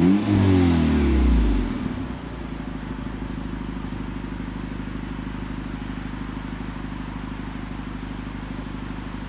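Acura RDX turbocharged four-cylinder engine, breathing through a full 3-inch Magnaflow exhaust with a tuned downpipe, given a quick rev in the first second that falls back by about two seconds in. It then settles into a steady, deep idle burble from the muffler.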